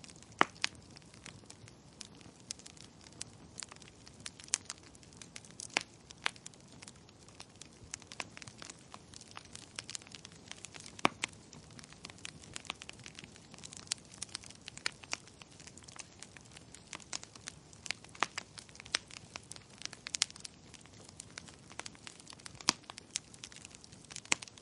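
Burning firewood crackling and popping: irregular sharp snaps, several a second, some much louder than others, over a low steady hiss.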